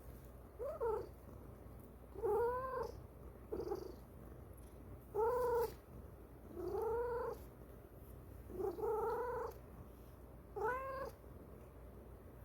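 Pet cat making a series of short, arching meow-like calls, rising then falling in pitch, about one every one and a half seconds. The calls have a cooing quality that sounds like a pigeon.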